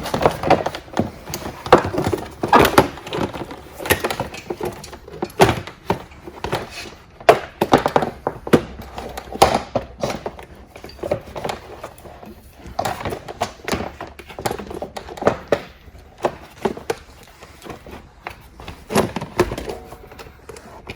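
Irregular knocks, taps and rattles of an electric ATV's plastic body panels and loose handlebar parts being handled and fitted back on.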